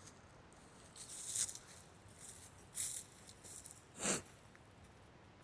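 A few soft crunches of footsteps on dry fallen leaves, irregularly spaced, about four in all.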